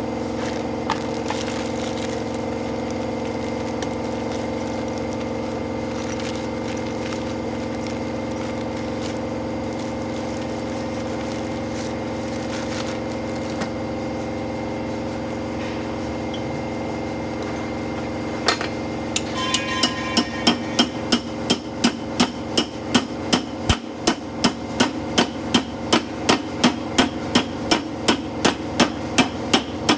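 A steady engine drone, then from about two-thirds of the way in, rapid, evenly spaced hammer blows on metal, about two and a half a second, louder than the engine.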